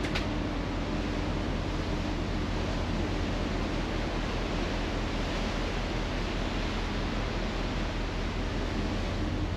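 Steady rushing noise of wind and sea aboard a ferry under way, with a low steady hum beneath it.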